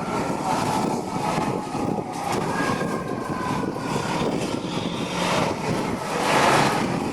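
Street traffic noise: a steady, mixed rumble of vehicles and engines.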